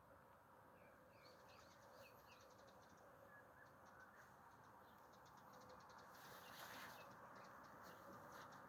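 Faint outdoor ambience with small birds chirping and a fast, even trill, and a brief hiss about six seconds in.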